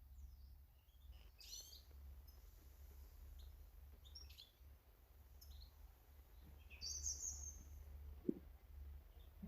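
Small garden birds chirping: scattered short high calls, with a louder falling call about seven seconds in, followed by a single soft knock, all over a faint steady low hum.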